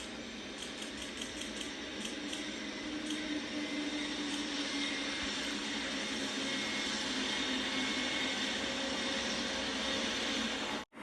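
Amtrak train with a GE P42DC diesel locomotive running by: a steady rumble with a low hum that slowly grows louder. A run of light clicks, like wheels over rail joints, comes in the first few seconds. The sound cuts off abruptly just before the end.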